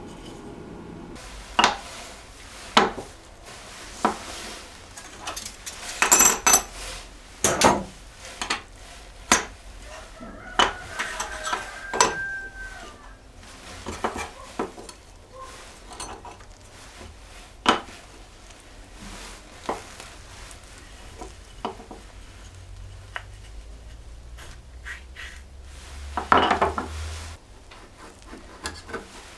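Workshop handling of rulers and plywood parts on a bench: scattered sharp clicks and knocks, a short squeak about eleven seconds in, and a brief scraping rush near the end.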